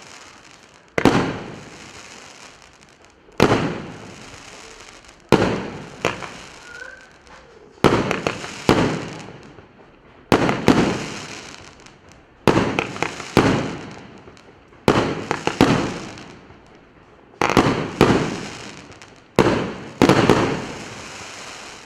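25-shot consumer firework battery (cake) firing its shots one after another, a sharp bang about every one to two seconds, each dying away over about a second, some shots coming close in pairs.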